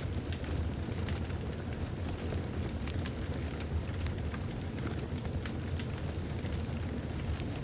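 Wood fire burning in a fireplace: a steady low rumble of flames with frequent small sharp crackles and pops scattered throughout.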